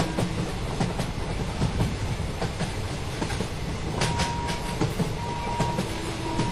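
Train passing at speed over a level crossing, its wheels clattering over the rail joints with a continuous rumble. About four seconds in, a high steady beep starts sounding in short repeated stretches.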